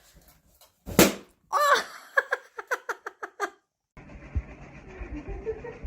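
A sharp smack about a second in, followed by a quick run of short, pitched voice-like calls, about four or five a second, that stop after a couple of seconds. Near the end a different, quieter background with a few dull low thumps.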